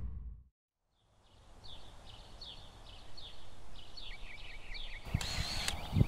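Outdoor ambience with a bird chirping over and over in short falling calls, two or three a second, over a low steady background. A little after five seconds the background gets louder and fuller, with a few faint clicks.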